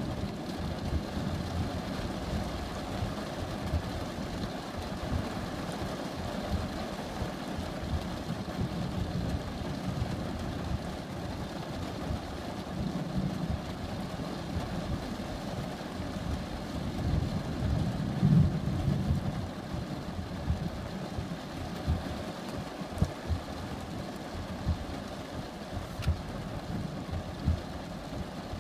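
Thunderstorm ambience: a steady low rumble with a few swells, as of thunder rolling in the distance.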